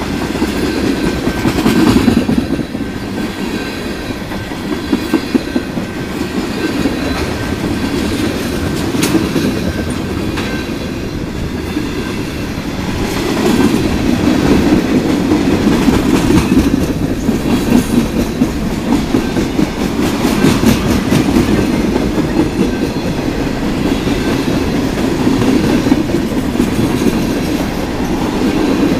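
Freight train of tank cars and covered hoppers rolling past close by: a steady rumble of steel wheels on rail, with a running clickety-clack of wheels over the rail joints.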